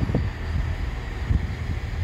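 Low, steady rumble of a train at a station, with wind buffeting the microphone in two short gusts, one near the start and one past the middle.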